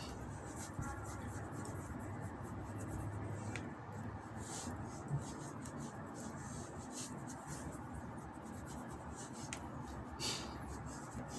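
Hands working cold porcelain modelling clay: soft rubbing and rustling with scattered light taps, including two small knocks, over a steady low hum.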